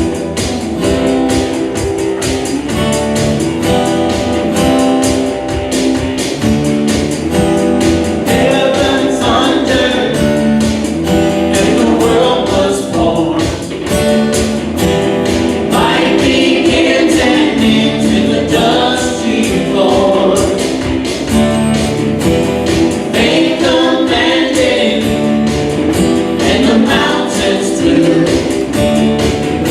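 Church worship music: a band plays with a steady beat, and group singing comes in about eight seconds in.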